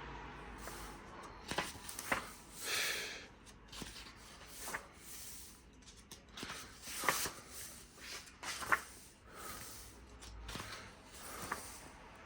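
Pages of a large hardcover book being turned and handled: a few brief paper swishes with scattered light taps and clicks.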